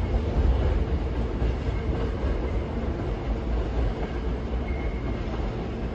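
Hankyu electric train rumbling away along the station tracks, a low rumble that slowly fades.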